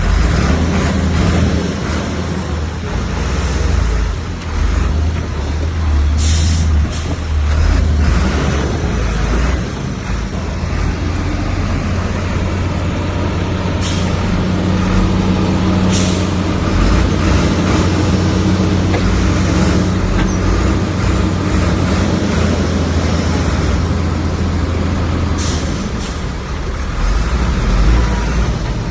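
Heavy diesel earthmoving machinery working, with a steady low engine drone throughout. A few short, sharp noises break through at intervals.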